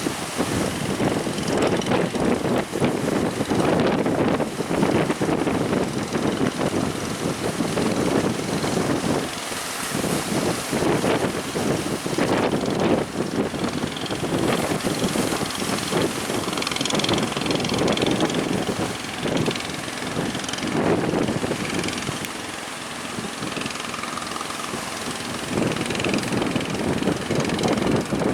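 Strong wind buffeting the microphone in gusts, over the running engine of a boat heading out through rough water.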